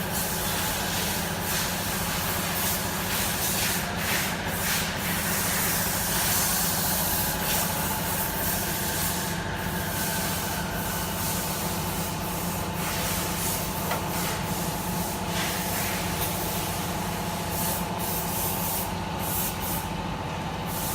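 Double-head aluminium cutting saw running steadily, its motors and blades spinning with a steady whine over a low hum.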